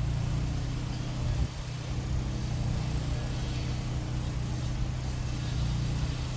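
Steady low hum of an engine running, with a single brief knock about a second and a half in.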